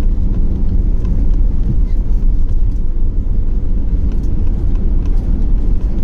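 Steady low rumble of an Airbus A320 heard from inside the cabin while it moves on the ground after landing, with a few faint clicks.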